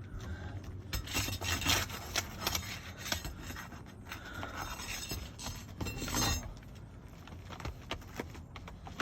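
Irregular scraping and rubbing on roof shingles, with scattered light clicks, as a damaged shingle is worked loose for removal. The scraping comes in denser bursts about a second and a half in and again around six seconds in.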